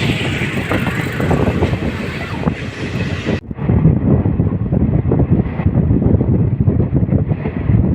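Passenger train running on the rails: a steady rumble with a busy rattle of wheels and carriage, and wind buffeting the microphone. About three and a half seconds in, the sound abruptly turns duller, losing its high hiss.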